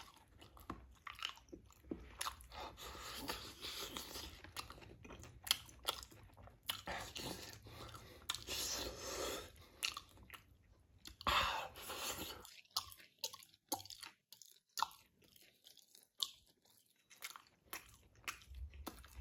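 Close-up chewing, biting and crunching of spicy meat, with many sharp mouth clicks; it goes quieter about two-thirds of the way through.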